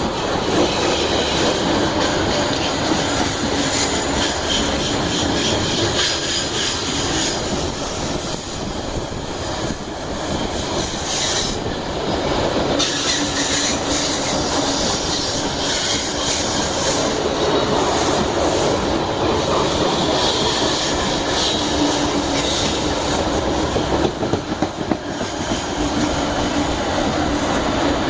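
Iron-ore freight train's wagons rolling past close by, steel wheels on the rails with high-pitched squeals that come and go over a steady rumble.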